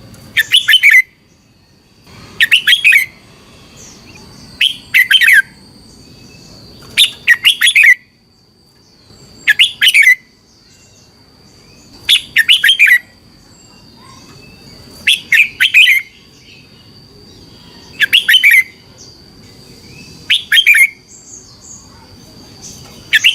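Red-whiskered bulbul singing: about ten short, bright warbled phrases of about a second each, repeated every two to three seconds.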